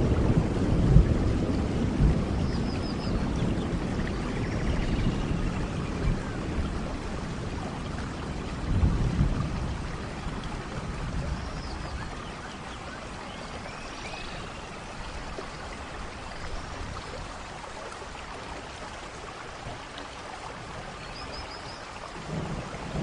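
Steady rainfall in a rainforest thunderstorm, with rolling thunder fading away over the first few seconds and another low rumble about nine seconds in. A few short high chirps sound over the rain.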